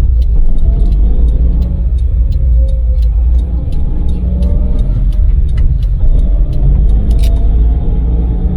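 Daewoo Damas microvan's small LPG three-cylinder engine and tyres at expressway speed: a steady, loud low rumble with a faint whine that rises slowly in pitch several times, and scattered light ticks over it.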